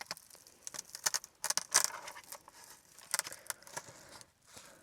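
A mirror's plastic parts and packaging being handled: scattered sharp clicks and short crinkling rustles, the loudest about a second and a half in.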